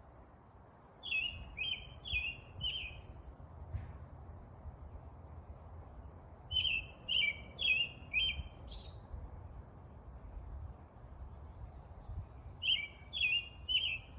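Birds chirping: a repeated phrase of about four quick notes comes three times, about a second in, near the middle and near the end, with short high-pitched chirps in between, over a steady low background hum.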